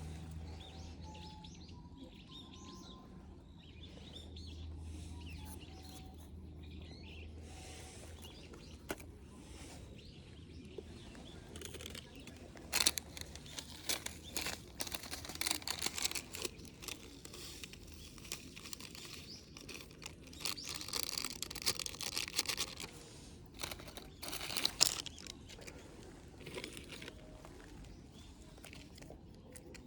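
Outdoor ambience with a few short bird calls early on, then a run of sharp clicks and rustling handling noises through the middle.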